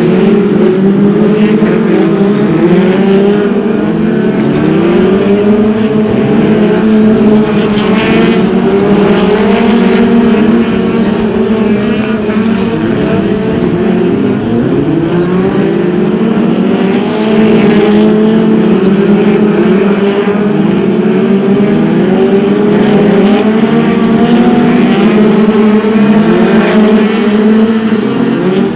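A pack of BriSCA F2 stock cars racing, several engines at once revving up and easing off over and over as they lap the oval.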